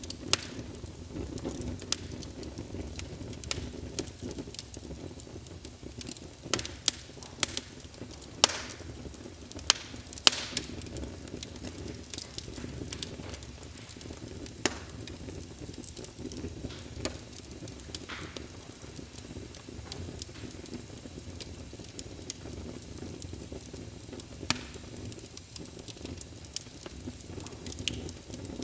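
Wood fire burning in a fireplace: a steady low rumble of flames with scattered sharp crackles and pops, a cluster of louder pops about seven to ten seconds in.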